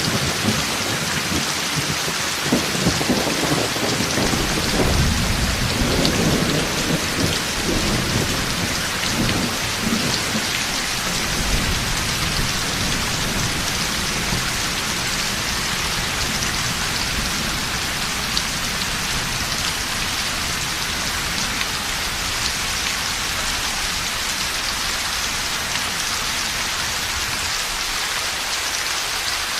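Heavy rain falling steadily, with a long roll of thunder rumbling low over the first ten seconds or so before dying away.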